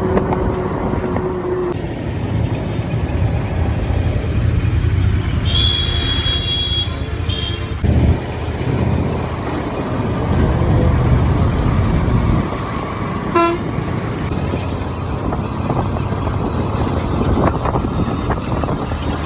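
Motorcycle riding at speed, its engine and wind and road noise making a steady rumble. A vehicle horn honks for about a second and a half about a third of the way in, followed by a short toot, and another brief beep comes a little past two thirds of the way.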